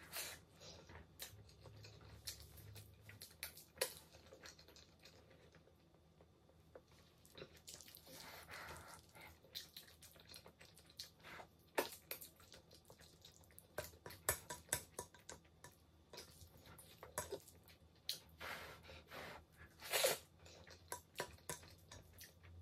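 Close eating sounds: wet chewing and mouth smacks of someone eating soft rice and pasta, with irregular sharp clicks, the loudest about twelve and twenty seconds in.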